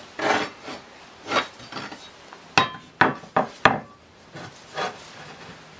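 Damp cloth rubbing in short strokes over a rusty steel scythe blade treated with rust converter, with four sharp metallic knocks in quick succession about halfway through as the blade is handled.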